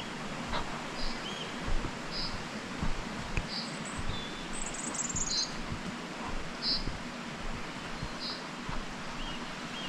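A small bird repeats a short high chirp about once a second, and another bird gives a brief falling trill about five seconds in. Under them are a steady hiss of running water and soft footsteps on a path.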